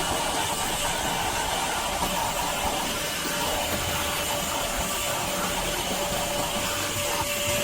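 LIGO 20V cordless wet/dry shop vacuum running steadily, a continuous rush of air with a faint steady whine that comes through more clearly in the second half.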